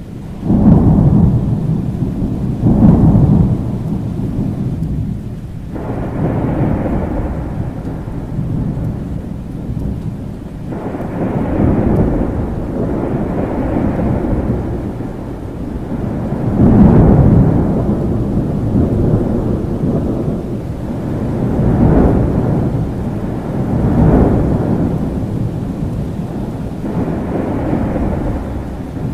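Thunder rumbling again and again over steady rain. Each roll swells and fades over a few seconds; the loudest come right at the start, about three seconds in, and midway through.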